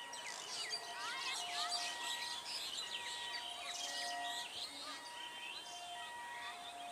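Birds chirping and calling, many quick rising and falling notes, over faint background noise. Short steady whistle-like tones come and go at a few pitches.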